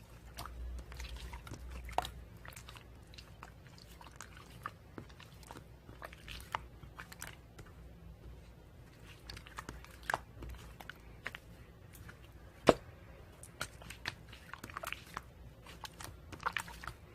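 Irregular small clicks and crunchy crackles at close range, with one sharper click a little past two-thirds of the way through.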